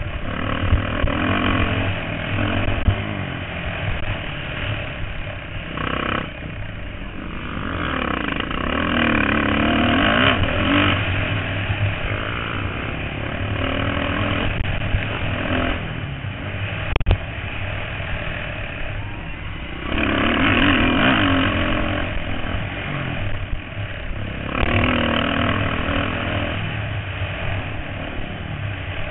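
Motocross bikes racing on a track, their engines revving up and dropping off, swelling loud several times as riders pass and fading between.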